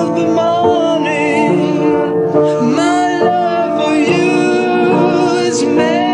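A solo singer holding long notes with vibrato over sustained accompanying chords, in an unplugged song.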